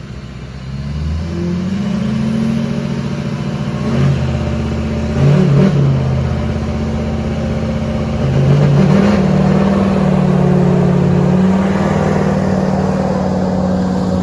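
Diesel engines revving hard under heavy load in a tug of war between an LMM Duramax pickup and a skid steer. The pitch climbs about a second in and then holds high, with brief surges around five and nine seconds in.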